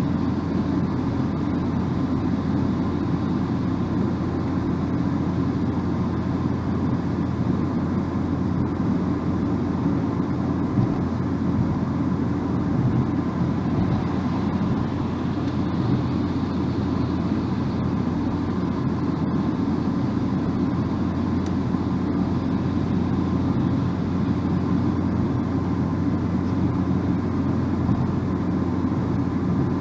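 Steady low rumble of a car driving at road speed: tyre and engine noise, even throughout.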